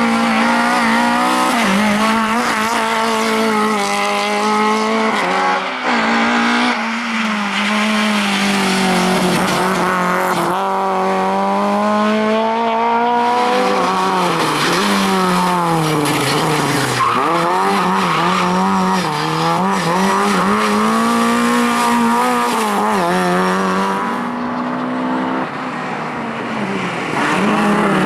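Rally car engine driven hard at high revs. The pitch falls back several times as the driver shifts or lifts off, then climbs again.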